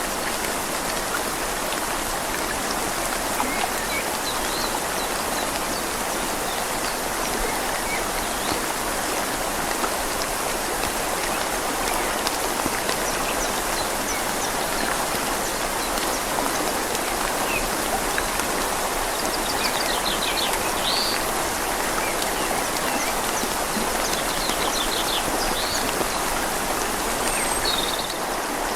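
Steady rain falling on leaves over a flowing river: a dense, even hiss. A few short, high bird chirps come through in the second half.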